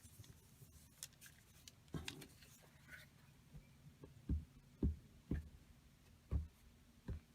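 Handling of craft supplies on a work table: a few light clicks, then a run of about five short, dull thumps in the second half.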